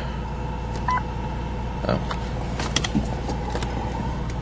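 Ford Taurus's 3.0-litre Vulcan V6 idling steadily soon after a cold start, with a few faint clicks.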